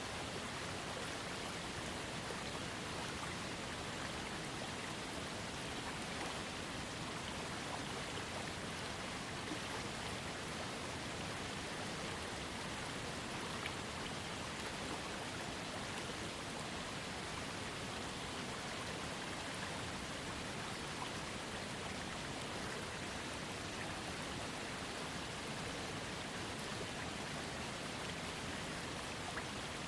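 Steady rush of a small waterfall fed by a trickling creek, with splashing water droplets over an even wash of falling water.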